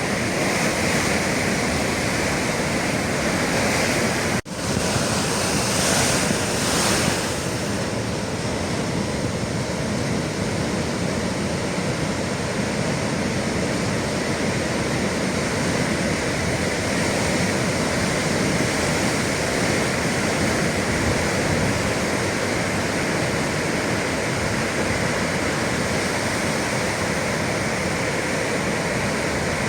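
Sea waves breaking and rushing steadily against the shore, a continuous surf wash, with a brief break in the sound about four seconds in and a louder hissing surge just after.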